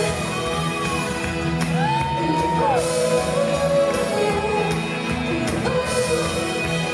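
Live pop-rock band (drums, bass, guitar, keys) playing the song through the hall's sound system, with the singer holding wordless 'ooh' notes over it.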